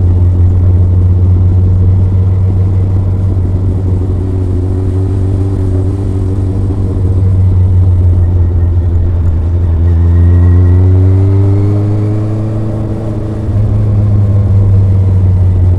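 Kawasaki ZRX inline-four motorcycle exhaust while riding, a steady low note. About ten seconds in the revs climb for a few seconds, then dip briefly and settle again.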